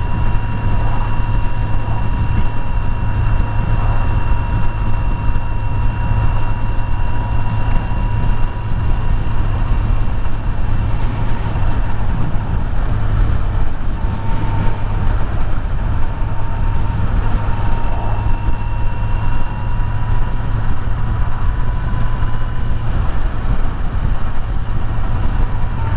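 Kawasaki Z900 inline-four motorcycle engine running at a steady cruise, with wind noise over it. Engine speed holds even, with no revving or gear changes.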